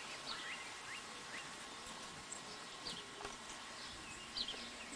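Scattered short bird chirps, a handful of quick rising and falling notes, the loudest cluster near the end, over a faint steady background.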